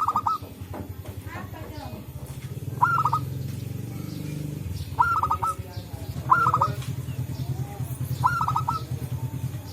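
Zebra dove (perkutut) calling five times, each call a quick run of three or four clipped, high cooing notes, about 1.5 to 3 seconds apart. Under the calls a low, fast-pulsing drone comes in at about two seconds and runs on.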